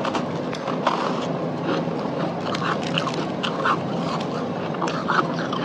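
Close-miked chewing of freezer frost: a steady run of short, crisp crunches and crackles from the mouth.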